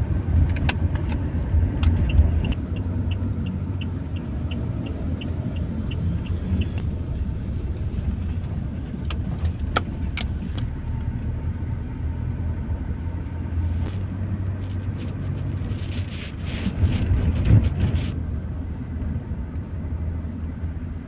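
Steady low road and engine rumble of a car, heard from inside. A run of light, evenly spaced ticks, about three a second, comes a few seconds in, and a louder rushing swell rises and fades over a few seconds near the three-quarter mark.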